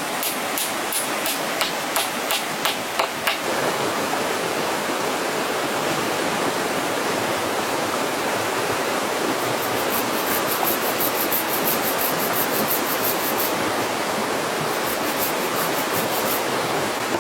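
A run of sharp knocks, about two a second, that stops about three seconds in, leaving a steady rushing noise. Fast, high-pitched pulsing comes in about ten seconds in and again near the end.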